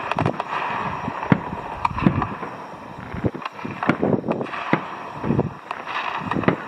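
Fireworks going off: an irregular string of bangs and pops, a few a second, over a steady background hiss.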